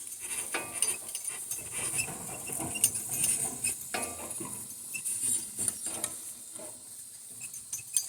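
A harnessed donkey team and the rig it is hauling moving over farm ground: an irregular run of light clicks, knocks and rattles, under a steady high hiss.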